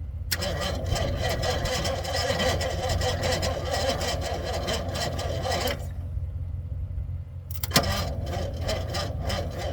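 1984 tow truck's starter cranking the engine for about five seconds without it catching, then a click and a second bout of cranking near the end. The battery is running down.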